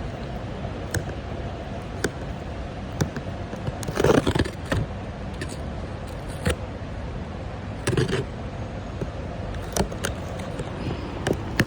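Cardboard ceiling fan box being opened and its contents handled: scraping and rustling with scattered clicks, and louder bursts of rustling about four and eight seconds in.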